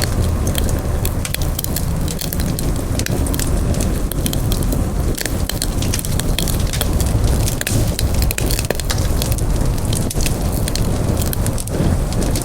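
Campfire burning: a steady low rumble of flames with frequent, irregular sharp crackles and pops.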